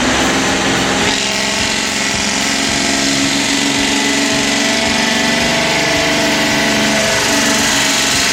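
Detroit Diesel 12V-71 two-stroke V12 diesel in a 1974 Kenworth truck, running loud and steady, with a brief dip in pitch near the end.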